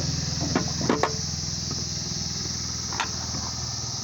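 Tractor engine running steadily at idle, with a few sharp metallic clicks and knocks about half a second, a second and three seconds in.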